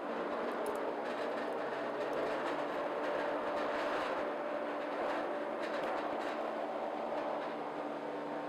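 Electric trim saw (pull-over cross-cut saw) running, a steady motor hum with a whirring blade noise that swells slightly for a few seconds in the middle.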